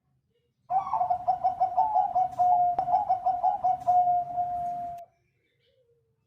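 Zebra dove (perkutut Bangkok) cooing its song: a quick run of short staccato coos, about four a second, ending in one longer held note. It starts about a second in and stops abruptly after about four seconds.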